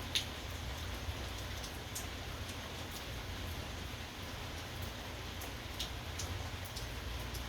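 Steady rain falling, with scattered louder drops landing close by, the sharpest one just after the start, over a steady low rumble.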